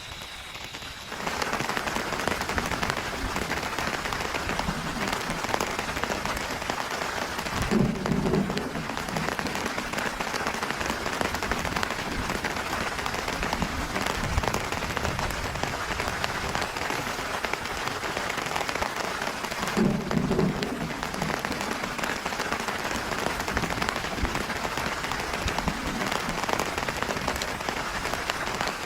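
Heavy rain falling steadily in a dense patter that comes in suddenly about a second in. Two short, low rumbles stand out above it, one a third of the way through and one about two-thirds through.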